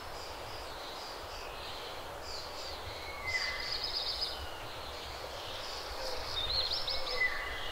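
Small birds singing over a steady low background rumble. There are scattered high chirps, with a fast trilling phrase about three and a half seconds in and again near the end.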